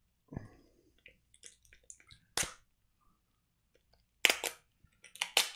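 Plastic snack wrapper crinkling in the hands as a packaged mochi is opened: scattered small crackles with three louder crinkles, about two seconds in, around four seconds in and near the end.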